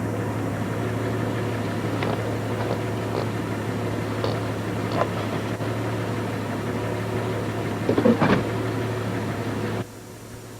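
A steady low mechanical hum with a hiss over it, switching on and off abruptly, with a few light clicks and a louder rattle about eight seconds in.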